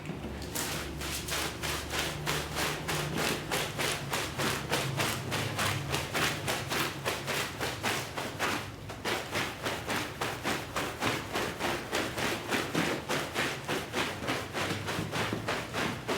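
Brush scrubbing a wet shag rug in quick, even back-and-forth strokes, about three to four a second, with a scratchy rubbing sound on each stroke.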